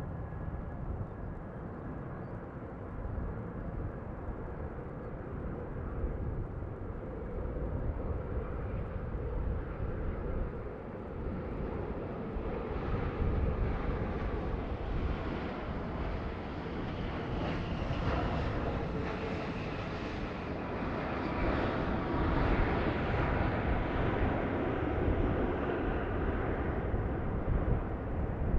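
Jet airliner passing, its engine noise building through the middle and easing off near the end, over a steady low rumble of strong wind on the microphone.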